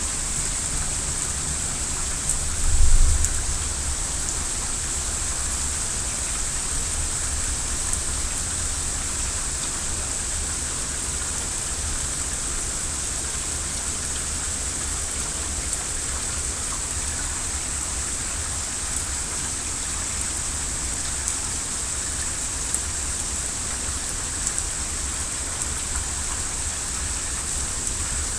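Steady rain falling and pattering on surfaces, breaking a long drought. About three seconds in there is a brief low rumble.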